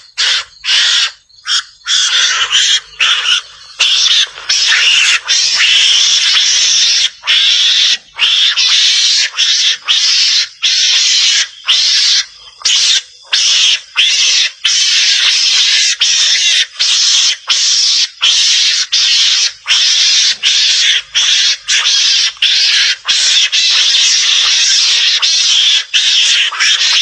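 Recorded calls of a Javanese mongoose (garangan): a loud, continuous chatter, hissy rather than pitched, broken by brief gaps about once a second.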